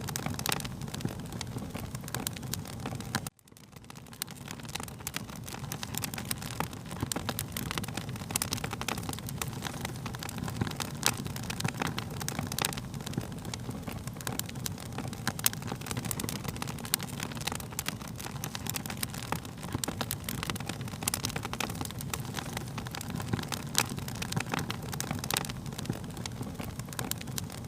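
Wood fire crackling: a steady low rumble of flames with frequent sharp pops and snaps. The sound cuts out briefly about three seconds in, then swells back.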